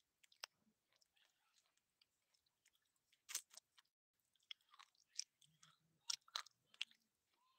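Mouth chewing and crunching small dry pieces of multani mitti (Fuller's earth clay). Scattered crisp crunches come through, the strongest about three seconds in and a cluster of them around six seconds.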